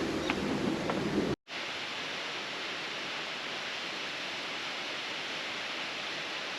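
A waterfall rushing: a steady, even roar of falling water. About a second and a half in, a cut switches it from a heavier, rumbling roar to a steadier, brighter hiss.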